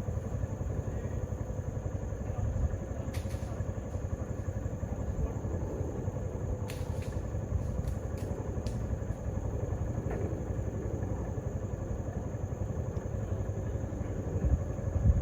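A vehicle engine running steadily with a low rumble, and a few faint clicks over it.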